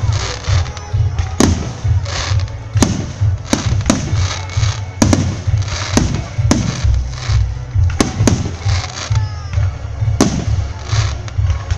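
Aerial firework shells bursting close by: about a dozen sharp booms, some in quick pairs, spaced from half a second to two seconds apart, each trailing off in echo over a steady low rumble.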